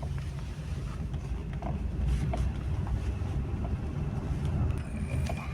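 Vehicle moving along a road: a steady low rumble of engine and road noise, with some wind on the microphone.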